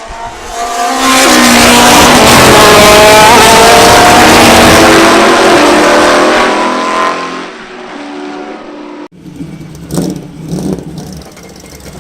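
A race car's engine goes by on the circuit at high revs: it swells to very loud about a second in, holds, and then fades with its note falling as it moves away. Near the end the sound cuts abruptly to quieter background noise with a single sharp knock.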